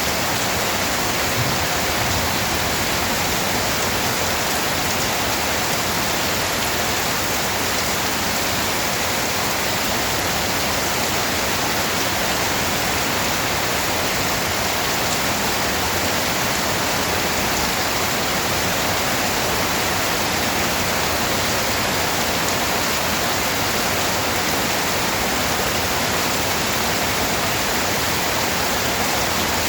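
Steady, dense rainfall: an even, unbroken hiss with no separate drops standing out.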